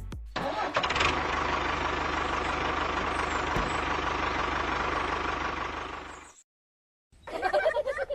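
Small motor of a DIY mini tractor running steadily for about six seconds, then cutting off abruptly. Near the end comes a short, high voice-like sound.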